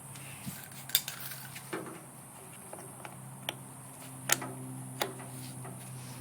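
A 1972 IH Cub Cadet 128 garden tractor's single-cylinder engine idling steadily, with about five sharp metal clinks and clanks as something is hooked up to it.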